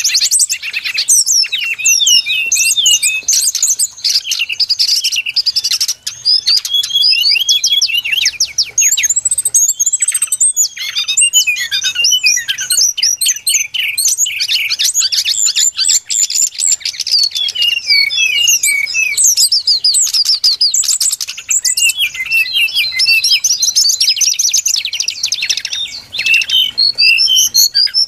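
Brown-chested jungle flycatcher song played as a bird-lure recording: a dense, unbroken stream of fast, overlapping high chirps and whistled trills.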